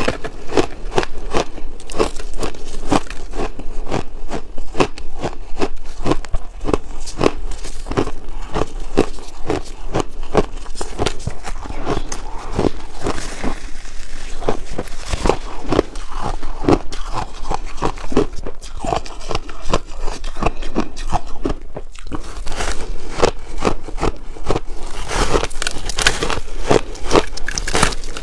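Chunks of ice being bitten and chewed: a dense run of crisp crunches and crackles, several a second, with a brief lull a little past the middle.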